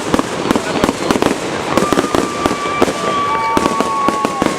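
Fireworks going off: a dense, rapid crackle of many sharp pops. From about two seconds in, high whistles join it, each holding a steady pitch and sagging slowly.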